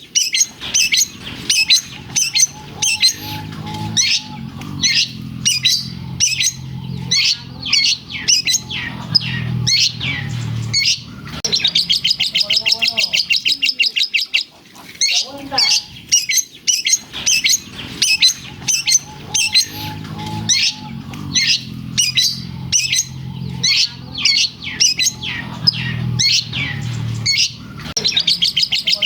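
Long-tailed shrike singing loudly and continuously: a fast stream of sharp, high chattering notes mixed with rapid buzzy trills, its song filled with mimicked lovebird calls. The same passage of song repeats about halfway through.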